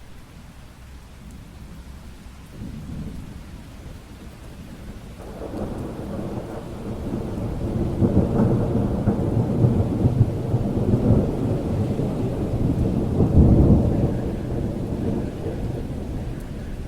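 Steady rain with a long, low roll of thunder. The thunder builds from about five seconds in, peaks twice and fades near the end.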